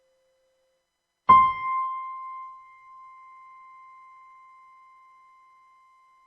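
Donner DEP-20 digital piano sounding a single high C, struck about a second in and left to ring out with the sustain held, fading slowly.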